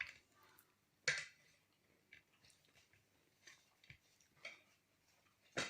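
A few scattered light knocks and clicks in a quiet room, the clearest about a second in and another near the end.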